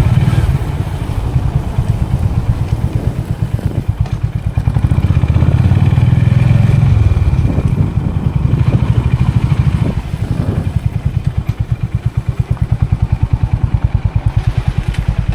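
Motorcycle engine running with a rapid, even pulsing beat, louder for several seconds in the middle.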